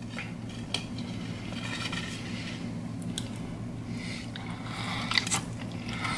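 A person chewing a bite of pecan caramel cheesecake, eaten by hand, with soft mouth noises and scattered small clicks, the loudest about five seconds in, over a steady low hum.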